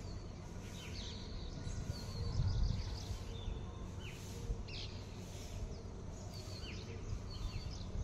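Small birds chirping in the background, short high calls scattered every second or so, over a low steady outdoor rumble.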